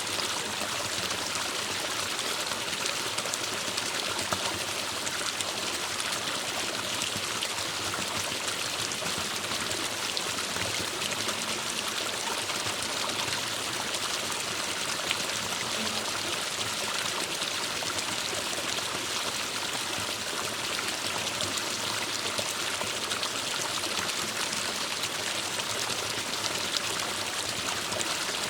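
Forest stream water flowing and trickling over rocks: a steady, even rush with fine splashing.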